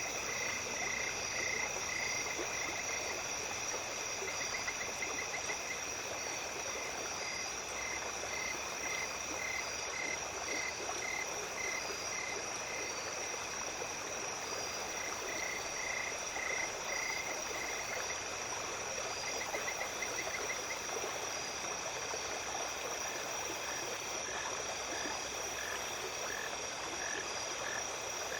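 A night stream with water running steadily under a constant high pitched chorus of insects. Over it, frogs croak in runs of short, evenly spaced pulses that start and stop several times.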